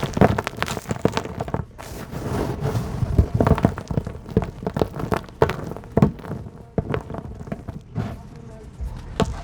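Chunks of hard, dry dirt crumbling and breaking, with a dense, irregular run of crunching crackles and soft thuds as pieces and grains fall.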